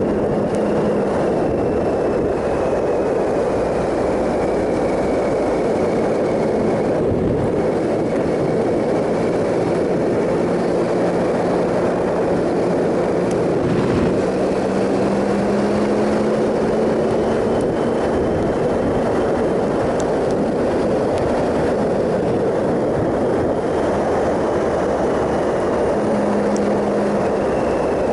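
Triumph Sprint ST 1050's three-cylinder engine running at a steady cruise, its note drifting slowly up and down, under a constant rush of wind noise.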